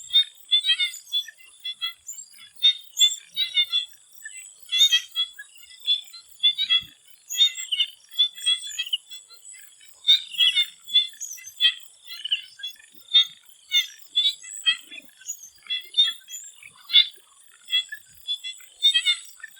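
Chorus of swamp frogs calling in quick, high-pitched pulsed bursts that overlap and repeat irregularly, over a thin steady high whine.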